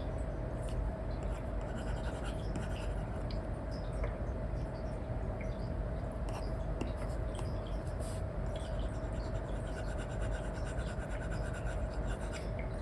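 Apple Pencil 2 with an Elecom replacement nib scratching and tapping across a paper-like screen protector on an iPad in short, irregular strokes, over a steady hiss with a faint constant hum.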